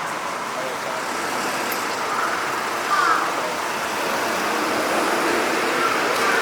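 Steady city street traffic noise, with a few short bird calls about three seconds in and again near the end.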